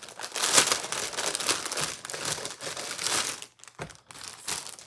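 Gift wrapping crinkled and pulled open by hand: a dense rustling crackle that dies down about three and a half seconds in, leaving a few soft rustles.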